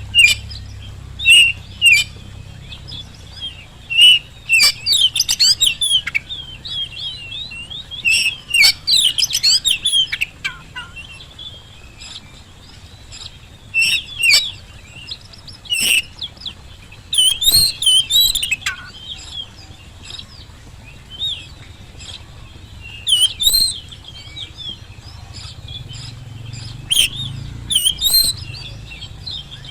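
Oriental magpie-robin (kacer) singing loud phrases of quick varied whistles, glides and sharp chirps, broken by pauses of a second or two. A faint low hum runs underneath.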